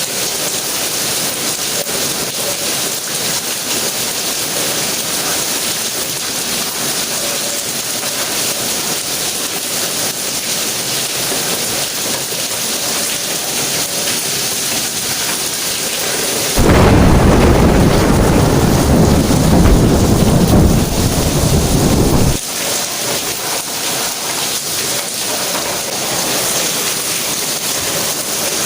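Steady rain hissing. About two-thirds of the way through, a loud, deep rumble of thunder comes in suddenly, lasts about six seconds, and stops abruptly.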